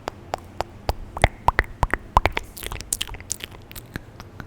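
Close-miked mouth sounds on a very sensitive microphone: irregular wet clicks and tongue pops, densest in the first half, with a brief breathy hiss a little past the middle.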